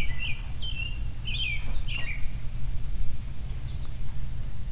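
A small bird chirping in short, repeated notes for about the first two seconds, with a couple more chirps near the end, over a steady low background rumble.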